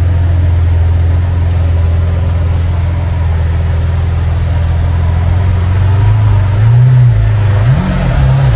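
Car engine idling with a deep, steady drone; in the last few seconds the note wavers and briefly rises and falls.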